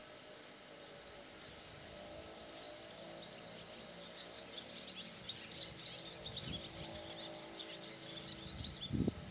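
Small birds chirping, a quick irregular run of short high chirps starting about five seconds in, over a faint steady background hiss. A couple of low bumps near the end.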